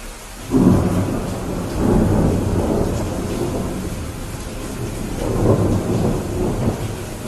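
Thunder rumbling over steady rain. The rumble breaks in suddenly about half a second in and rolls on in deep swells, strongest around two seconds and five and a half seconds in.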